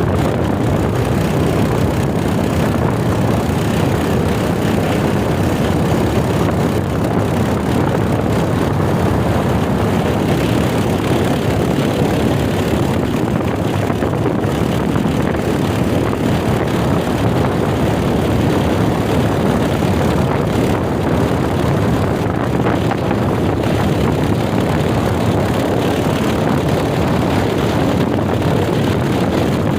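Royal Enfield Himalayan motorcycle running on the move, its engine and riding noise a steady, even rush.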